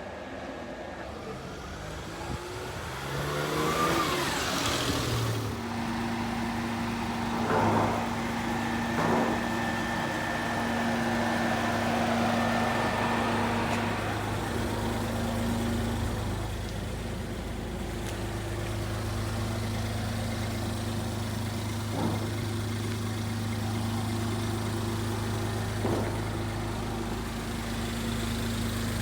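Suzuki Carry mini truck's 660 cc three-cylinder engine rising in speed for a few seconds near the start, then idling steadily, with a few short knocks over the idle.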